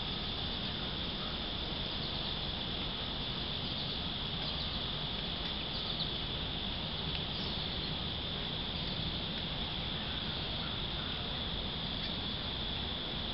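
Steady high-pitched insect chorus, an unbroken drone, with a few faint short bird chirps over it.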